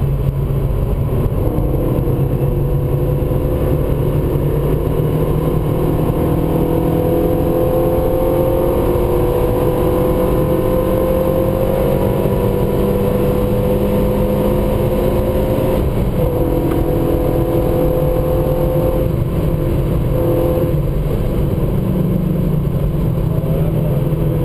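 A Renault Mégane RS's turbocharged four-cylinder engine heard from inside the cabin under sustained acceleration on a race track. The engine note climbs slowly through a long pull, breaks briefly a few times later on, and drops lower near the end, over steady wind and tyre noise.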